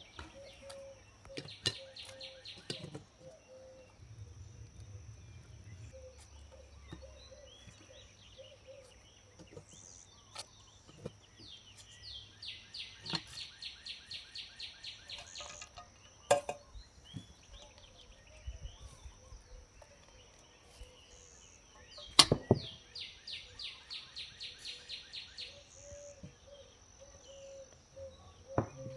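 Outdoor rural ambience: a bird calling in three runs of quick repeated high chirps, about five a second, over a steady high hiss. There are a few sharp knocks, the loudest about two-thirds of the way through.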